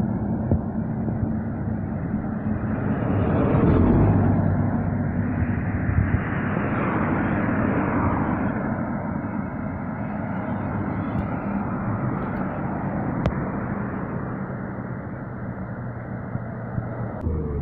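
Road traffic with heavy trucks: steady engine drone and tyre noise, swelling as a vehicle passes close about four seconds in and again around seven seconds.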